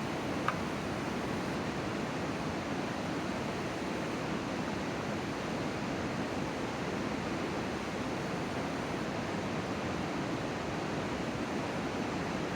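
Steady rushing outdoor noise with no pitch or rhythm, with one faint short tick about half a second in.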